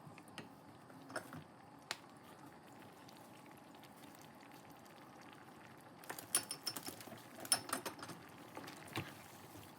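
Faint bubbling of curry simmering in a pan, with a few light clicks early on and a run of clinks and taps from a cooking utensil against the pan about six seconds in.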